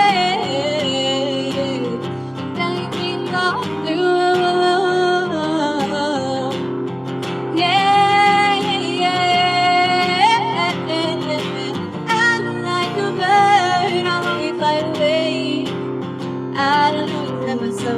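A woman singing long, held notes that waver in pitch, over a strummed acoustic guitar.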